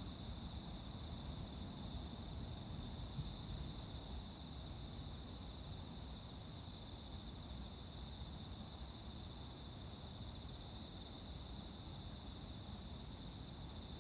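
A chorus of insects chirping steadily in a continuous high trill, over a low background rumble.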